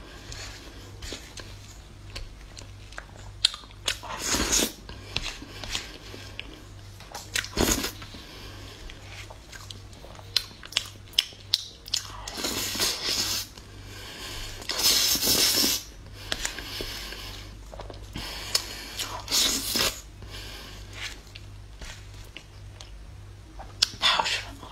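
Close-miked eating of chocolate-cream-covered sponge cake with chocolate shavings: wet chewing and mouth sounds in irregular bursts, with sharp little clicks in between.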